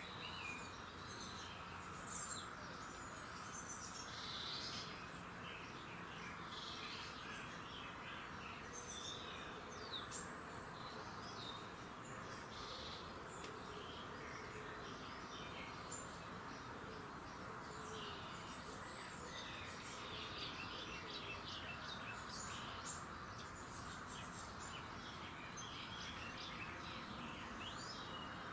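Chorus of several songbirds singing and chirping, many short overlapping calls, over a steady insect-like hum.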